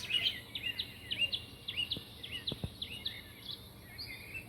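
Small pet birds chirping: a quick run of short, high chirps, about three a second, that thins out after about three seconds, with one faint knock partway through.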